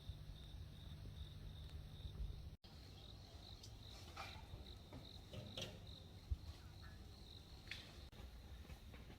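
Crickets chirping faintly and steadily, with a low hum and a few small clicks underneath; the sound drops out for an instant about two and a half seconds in.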